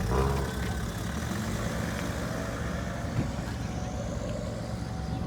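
Car engine running close by with a steady low rumble, a little louder for a moment at the start.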